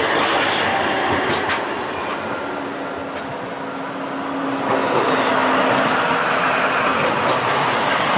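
Tram running on its rails: a steady rumble with a few sharp clicks in the first two seconds and a steady hum that comes in a couple of seconds in and fades near the end.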